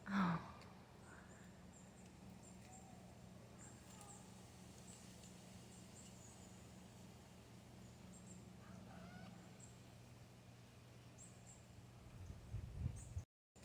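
A parrot gives one short, loud squawk at the start, followed by faint high chirps. A few low thumps come near the end, and then the sound cuts out briefly.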